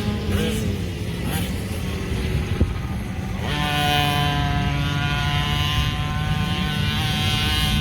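Motocross dirt bike engines running on the track: one engine's note slides down in pitch during the first second or so, then from about halfway a steady, held engine note.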